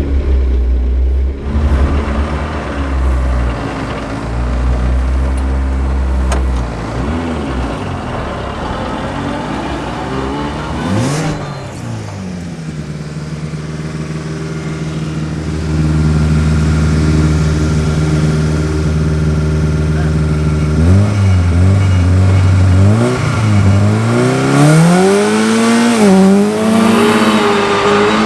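Rally car engine running hard, its pitch holding steady for stretches, then dropping and climbing as the revs change. Near the end it revs up and down repeatedly.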